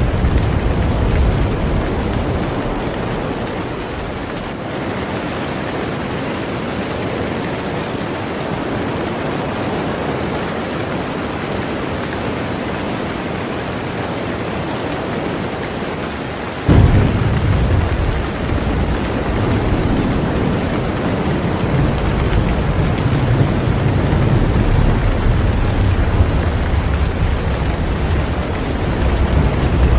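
Heavy rain falling on a boat, a steady hiss, with low thunder rumbling that fades in the first few seconds. A little over halfway through, a sudden thunderclap sets off a long rolling rumble.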